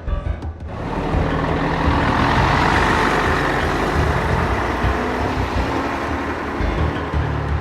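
Vehicle engine sound effect: a steady rushing rumble that swells about a second in and fades near the end.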